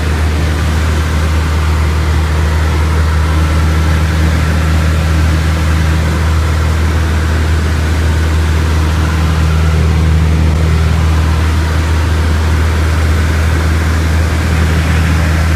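Piper PA-38 Tomahawk's four-cylinder Lycoming engine and propeller running steadily in a loud, even drone.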